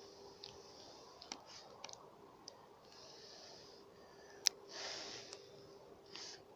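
Wood campfire crackling faintly with scattered sharp pops, one loud pop about four and a half seconds in, alongside several short breathy hisses.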